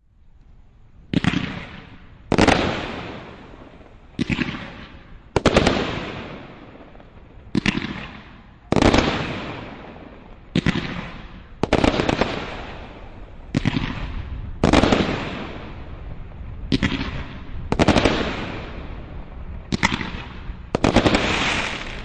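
Liquid Gold 35-shot firework cake firing its fanned gold shots: a sharp bang roughly every second and a half, some in quick pairs, each trailing off before the next.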